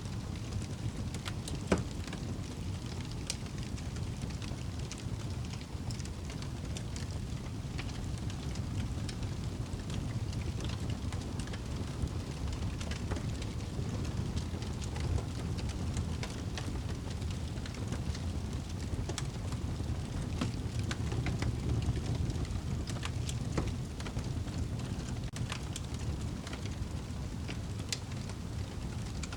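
Wood fire burning in a fireplace: a steady low rumble with frequent small crackles, and one louder pop about two seconds in.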